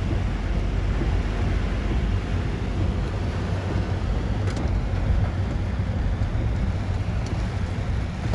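Typhoon wind and heavy rain, a steady rushing noise with a deep wind rumble on the microphone.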